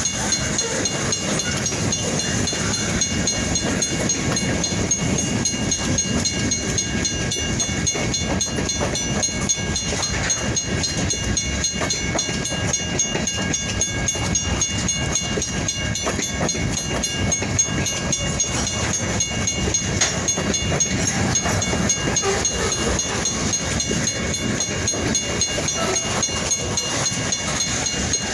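Freight train rolling past with a steady, dense clatter of wheels on the rails over a low rumble, and several steady high-pitched tones above it.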